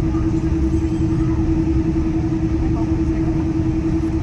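Cabin noise inside a Boeing 777-200ER taxiing: a steady low rumble with one constant hum running over it.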